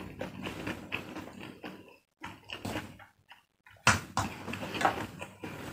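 Close-up eating sounds: a mouthful of instant fried noodles and green chili chewed with wet smacks and clicks, broken by two short silences, with a louder sound about four seconds in as more noodles are lifted with chopsticks.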